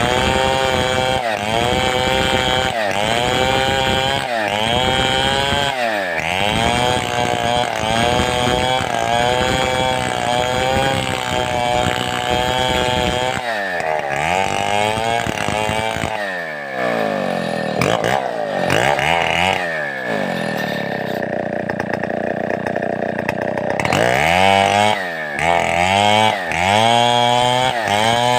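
Large Stihl 070-type two-stroke chainsaw cutting wood with a rocking stroke. The engine note drops under load and recovers about every second and a half. For a few seconds past the middle it settles to a lower, steadier note, then the rhythmic dips resume near the end.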